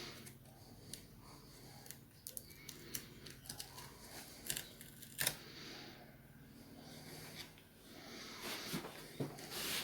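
Small scattered clicks and taps of hands and a tool working on a laptop's internals while the SATA hard-drive cable is unclipped, with one sharper tick about five seconds in and a soft hiss near the end.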